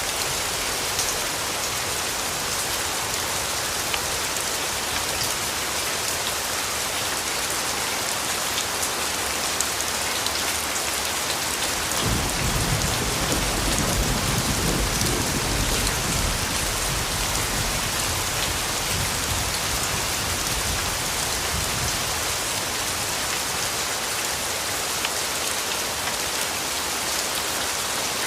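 Steady rainfall, with a low rumble of distant thunder that starts suddenly about midway and fades away over several seconds.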